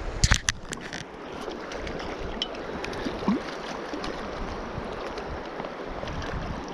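Steady rush of river water flowing, with a handful of sharp clicks and knocks in the first second.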